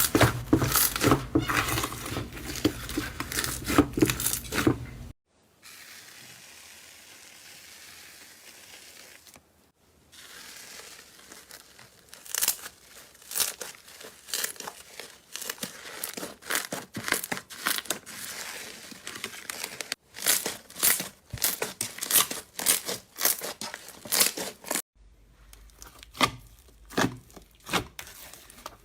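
Slime being squeezed and stretched by hand: quick runs of sticky crackling and popping clicks, broken by a quieter stretch of faint hiss about five seconds in and by several cuts between clips.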